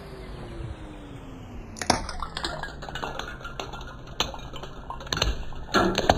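A car rolls slowly, its engine note falling, then its tyre crushes brittle objects: a sharp crack about two seconds in, followed by scattered crunching and cracking, with a denser burst of cracks near the end.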